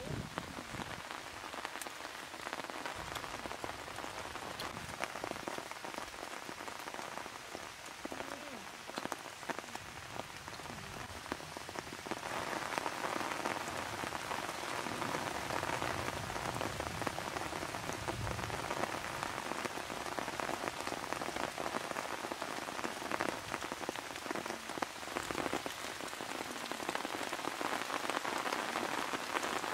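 Steady rain falling, with many fine drop patters, growing heavier about twelve seconds in.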